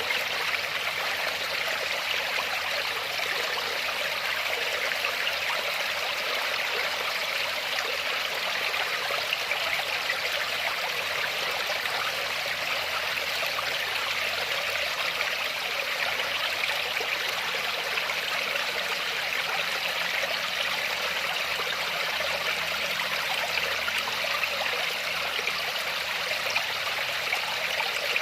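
Steady rush of falling water from a small waterfall, running evenly with no breaks.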